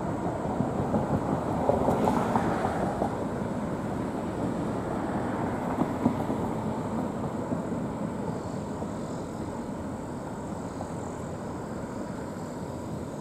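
Loaded rock train's freight cars rolling away on the track: a steady rumble of steel wheels on rail that slowly fades after about two seconds.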